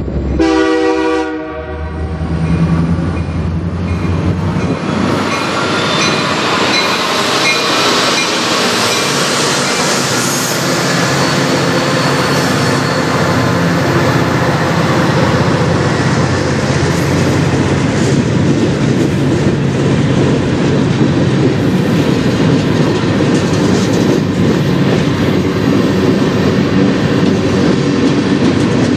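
A freight train's diesel locomotive horn sounds briefly at the start. Then the lead diesel locomotives pass close by with a low engine rumble and rising rail noise, followed by freight cars rolling past with steady wheel clatter on the rails.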